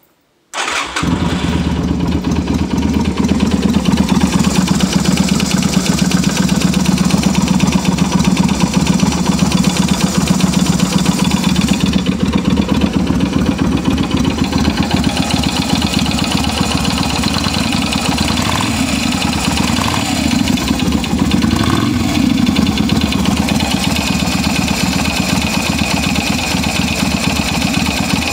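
Yamaha Virago 250's air-cooled V-twin engine starting about half a second in, then idling steadily with a strange engine noise that the owner suspects is a valve knocking.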